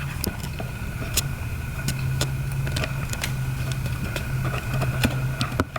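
A steady low mechanical hum with a faint high whine over it, and irregular light clicks and taps.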